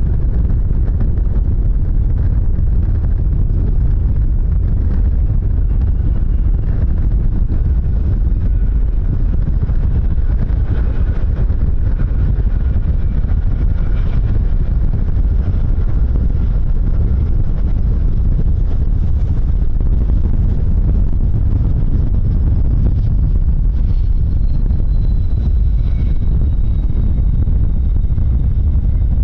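Wind buffeting hard on the microphone, with the faint high whine of a jet airliner's engines in the background, drifting slowly lower near the end.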